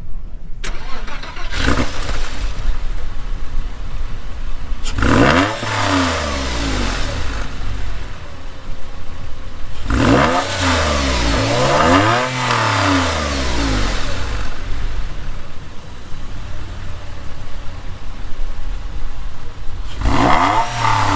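1999 Porsche 911's flat-six running through a non-factory exhaust, blipped up and back down four times: about 5 seconds in, twice in quick succession around 10 to 13 seconds, and again near the end.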